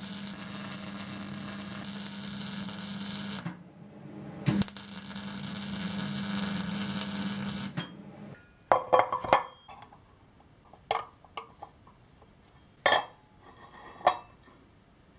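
Arc welding in two runs of about four seconds each: a steady hiss with a low hum underneath, broken by a short pause, the second run stopping about eight seconds in. After it come a few sharp metal clinks and knocks.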